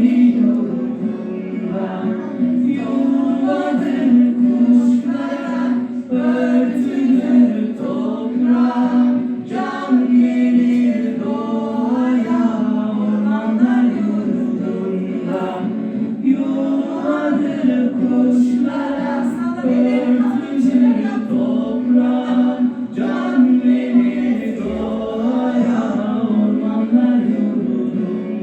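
A group of young schoolchildren singing a song together in unison.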